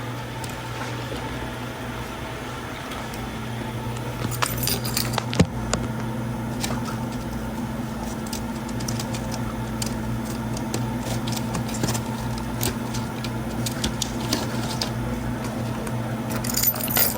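Steady low hum of a car running, with scattered small clicks and rattles from about four seconds in as a plastic drink cup full of ice and its straw are handled; the sharpest click comes a little past five seconds.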